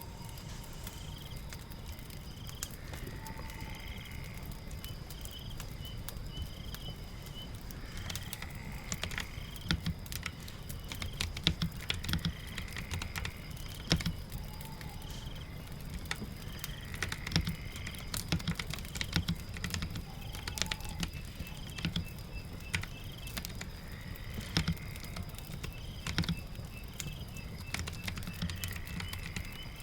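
Typing on a keyboard: irregular key clicks that start about eight seconds in, over a steady background of falling rain. Short high chirps repeat every second or two.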